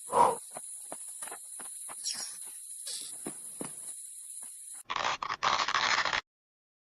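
Steady high-pitched insect trill with scattered clicks and taps, then a loud burst of noise lasting about a second and a half that cuts off suddenly.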